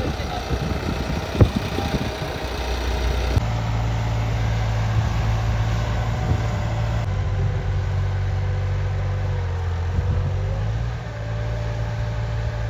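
New Holland 3630 tractor's diesel engine running steadily at low revs, with a sharp knock about a second and a half in.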